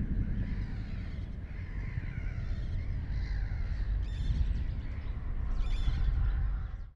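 Harsh cawing bird calls over a steady low rushing background, with two louder calls in the second half.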